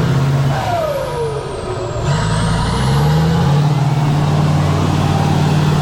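Heavy off-road trial truck's diesel engine running under load. It eases off briefly, with a falling whistle about a second in, then revs climb about two and a half seconds in and hold high and steady.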